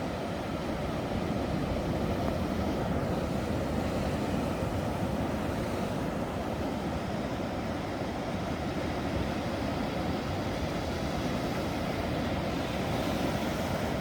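Ocean surf, a steady low rush of breaking waves with no single crash standing out.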